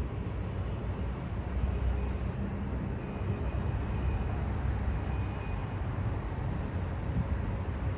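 Steady low rumble of city road traffic, with a faint thin high tone coming and going through the middle.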